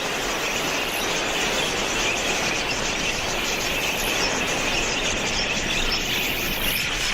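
A huge flock of wild budgerigars calling all at once, a steady wash of countless overlapping chirps.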